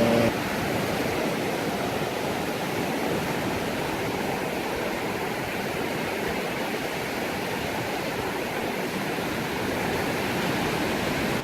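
Steady wash of sea surf breaking on the beach, an even rushing noise with no distinct waves standing out.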